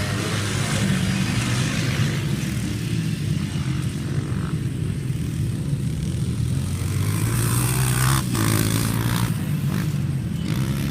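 Motocross dirt bike engine running, its pitch rising and falling with the throttle.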